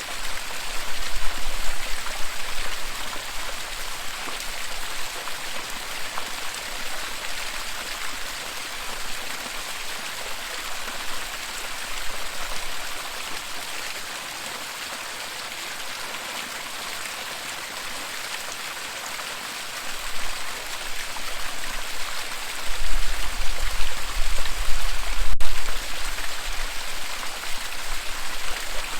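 Waterfall: water rushing and splashing in a steady hiss, with low rumbles swelling about a second in and again near the end.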